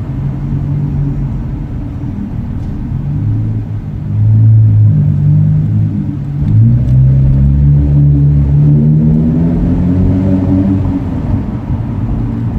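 Infiniti Q50 3.0T's twin-turbo V6 pulling through AMS 3-inch downpipes and a custom 2.5-inch catback with a single midpipe resonator. The exhaust note grows louder about four seconds in, then from about six seconds in climbs steadily in pitch under acceleration before easing off near the end.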